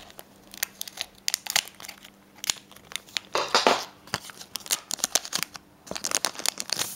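Foil Pokémon booster pack wrapper being handled and cut open with scissors: a run of sharp crinkles and crackles, with longer rustles about midway and again near the end.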